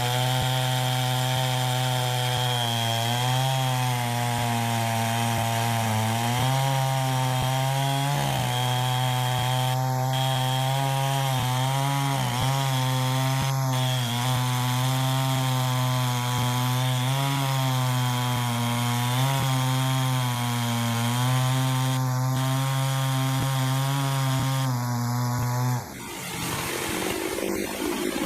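Chainsaw running steadily at high revs with a slight waver in pitch, most likely cutting wood. It cuts off abruptly near the end, and a quieter, noisier sound follows.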